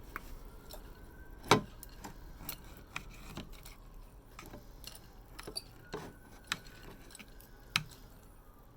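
Salad being tossed in a bowl with serving utensils: scattered clicks and knocks of the utensils against the bowl, the sharpest about a second and a half in and another near the end.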